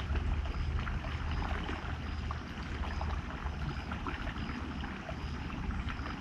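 River water rushing and splashing over rocks, with a steady low rumble and a constant spatter of small splashes. A faint high chirp repeats about twice a second throughout.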